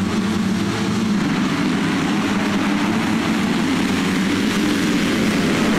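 Motocross motorcycle engines running at race speed, a steady engine note with rushing noise.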